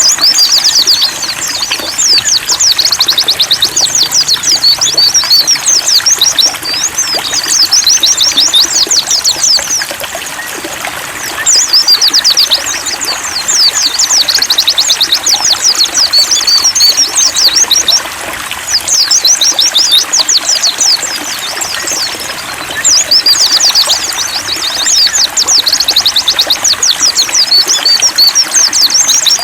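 Pleci (white-eye) song: long runs of fast, high twittering, several seconds each with short breaks, over a steady trickle of running water.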